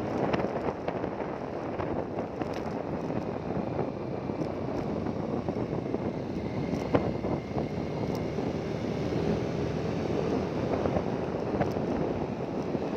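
A motor running steadily with a rough, crackling sound and scattered sharp clicks, mixed with wind noise on the microphone.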